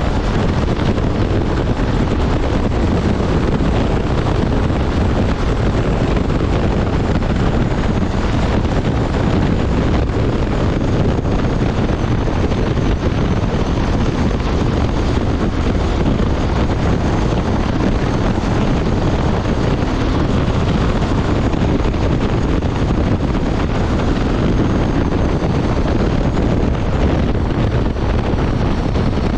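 Steady wind rushing over the microphone at highway speed on a Honda Transalp 750 motorcycle, with the bike's engine and road noise running evenly underneath.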